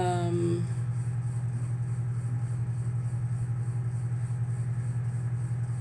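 Steady low machine hum with a fast, even pulsing throughout, from a running motor or appliance in the room. A brief pitched sound at the very start dips and then holds level.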